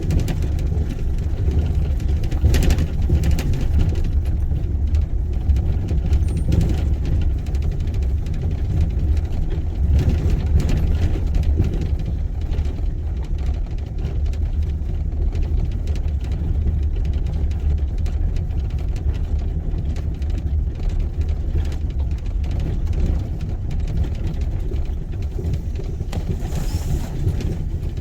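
Car interior noise while driving: a steady low rumble of engine and tyres on the road heard from inside the cabin.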